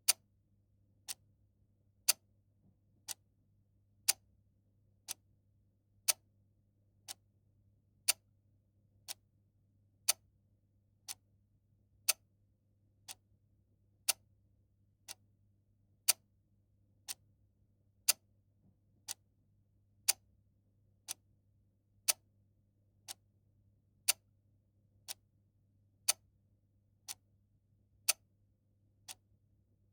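Clock ticking steadily, one tick a second, the ticks alternating louder and softer in a tick-tock pattern.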